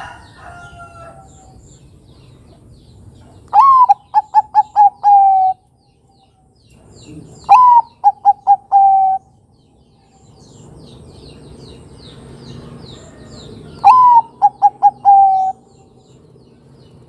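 Bangkok-type zebra dove (perkutut) cooing three times. Each phrase opens with a rising note, runs into a quick string of about four short notes, and ends on a longer held note. Faint chirps from other small birds sound between phrases.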